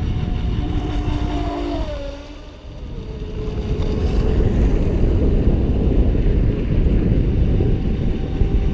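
Radio-controlled speedboats' brushless electric motors whining on the water, their pitch gliding down about two seconds in and then holding steady, over heavy wind noise on the microphone.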